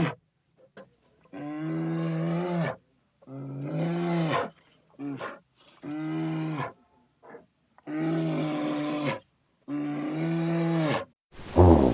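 A large animal giving a string of five calls, each about a second long, steady in pitch and dropping at the end. Short pauses separate the calls. Just before the end, a louder, different sound breaks in.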